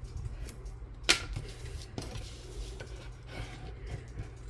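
Light handling of craft materials on a table: one sharp click about a second in and several fainter taps and ticks, over a low steady hum.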